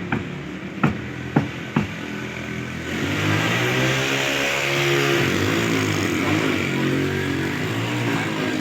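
Four sharp knocks in the first two seconds, then, from about three seconds in, a motor vehicle engine running steadily and louder, its pitch wavering slightly.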